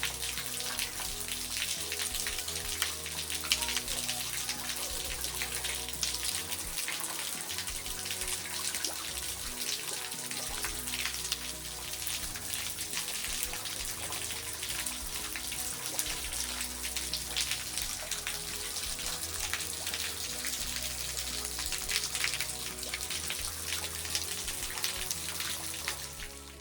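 A small, low-flow waterfall splashing and dripping onto rock, over background music with held notes.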